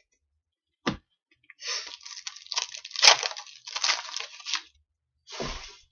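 A foil trading-card pack wrapper being torn open and crinkled: a short tap, then about three seconds of crackly tearing and rustling, and a brief rustle near the end.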